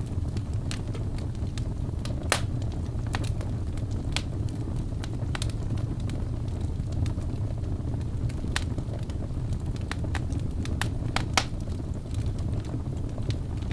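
Wood fire burning in a fireplace: a steady low rush of flame with scattered sharp crackles and pops of the burning logs, a few of them louder.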